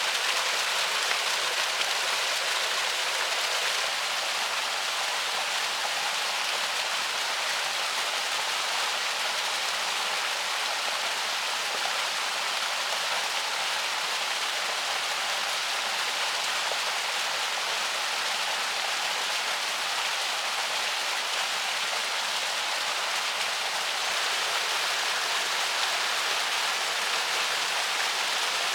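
Steady rushing of a flowing river, an even hiss with no breaks.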